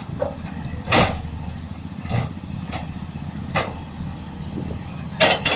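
Heavy vehicle engine running steadily, with several brief sharp sounds over it, the loudest cluster near the end.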